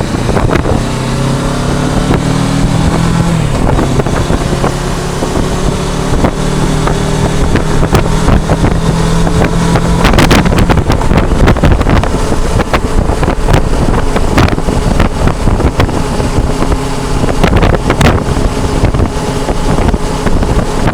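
Kawasaki Versys 650 parallel-twin engine pulling away and accelerating, its pitch rising through the first several seconds, under heavy wind buffeting on the microphone as the motorcycle gets up to speed.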